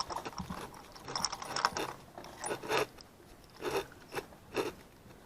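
Socket ratchet clicking in short bursts as it works a stubborn rear spark plug loose.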